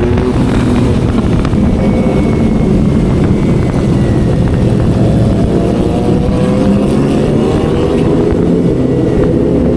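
Motorcycle engine with an aftermarket racing exhaust running loud under way; its pitch climbs gradually through the second half as the bike gathers speed.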